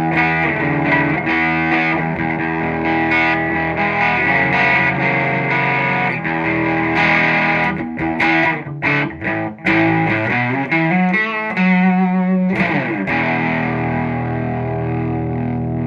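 Electric guitar with a single bridge pickup played through a dynamic fuzz pedal into a clean amp channel, giving a clean-to-gritty fuzz tone. It plays sustained chords, then a run of short choppy stabs in the middle, a sliding note, and a final chord left ringing.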